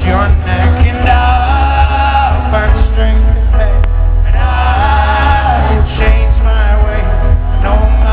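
Live folk-rock band playing loud, with a voice singing two long held notes and heavy, boomy bass underneath.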